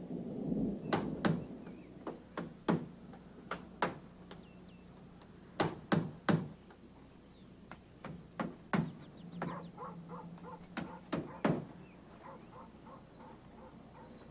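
Hammers striking nails in an irregular run of sharp knocks, some single and some in quick pairs, with birds chirping faintly.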